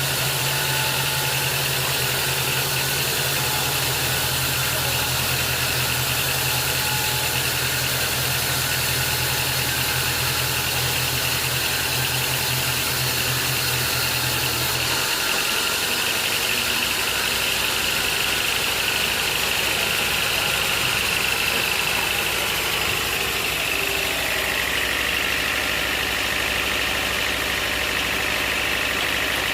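Sawmill machinery running steadily, a dense mechanical noise with a high whine. A low hum underneath stops about halfway through, and the whine sinks a little in pitch later on.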